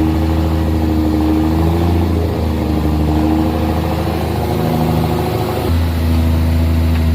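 Mercedes-Benz dump truck's diesel engine running steadily while it unloads its load of earth fill. The engine note shifts slightly about two seconds in and picks up a little about five and a half seconds in.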